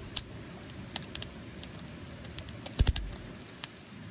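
Irregular sharp clicks and taps, with a cluster of louder knocks and a dull thud about three seconds in.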